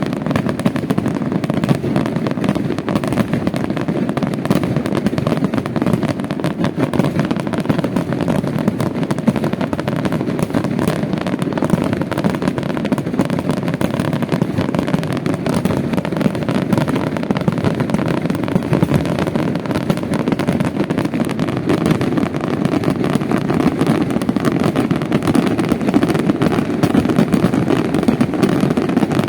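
Fireworks display in a rapid barrage, bursts and crackles overlapping so thickly that they merge into a steady rumble.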